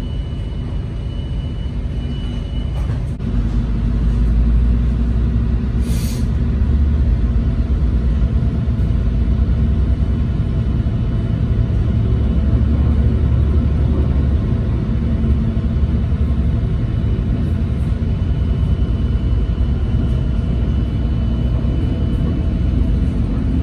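Steady low vehicle rumble that grows louder about three seconds in, with one short hiss about six seconds in.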